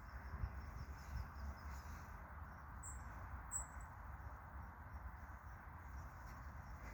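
Faint morning outdoor ambience: two short, high bird chirps about three seconds in, with a faint ticking trill early on, over a steady low rumble and soft hiss.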